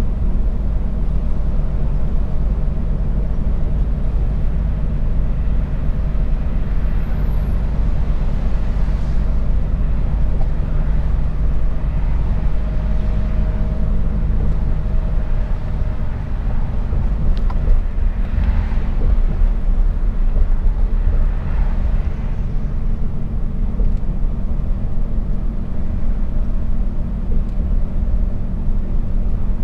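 Mercedes-Benz Actros truck's diesel engine running with road noise while driving, a steady low drone throughout.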